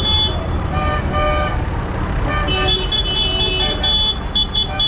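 Tractor engines running with a low steady rumble, while horns give short toots: two blasts about a second in, then a quick series of short high beeps from halfway through.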